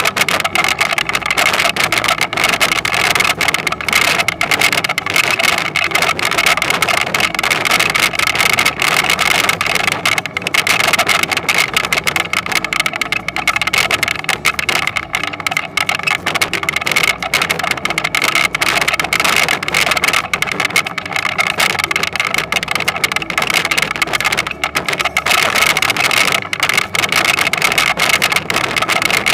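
Toyonoki potato harvesting machine running steadily: a constant engine note under a dense mechanical clatter.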